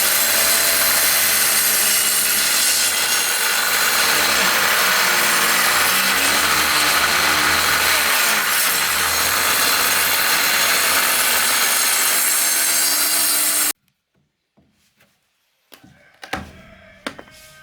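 Powered woodworking machine cutting wood: a loud, steady whine and rush whose pitch wavers as the cut loads and eases. It stops abruptly about fourteen seconds in, leaving a few faint knocks near the end.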